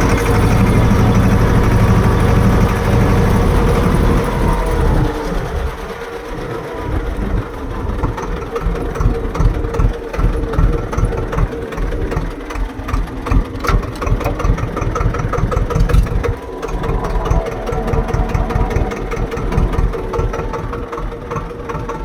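Swaraj tractor's diesel engine running: steady for the first five seconds or so, then uneven, rising and falling in loudness.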